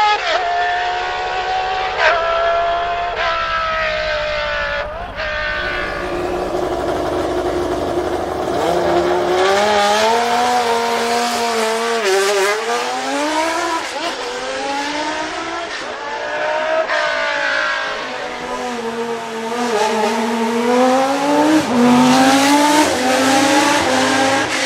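Historic Formula One race car engines at high revs, their note climbing and dropping again and again as they accelerate, shift gears and pass by.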